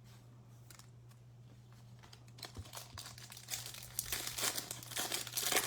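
Foil trading-card pack wrapper crinkling and tearing as it is handled. The crackle starts about halfway through and grows louder toward the end, over a steady low electrical hum.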